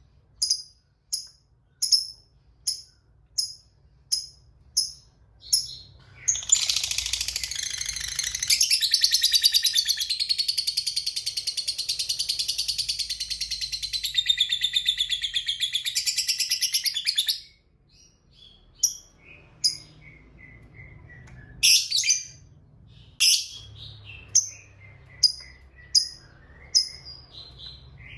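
Fighter lovebird calling: sharp single chirps about every two-thirds of a second, then a long rapid chattering trill, the prized 'ngekek panjang', lasting about eleven seconds, followed by more scattered chirps and short falling call series.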